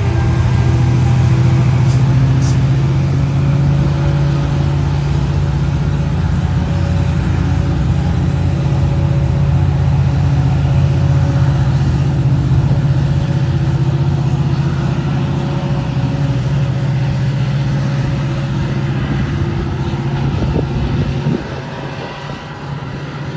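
Caltrain MP36 diesel locomotive's engine running steadily at a strong, even pitch as the push-pull train pulls out, with rail and wheel noise; it drops off sharply near the end as the train moves away.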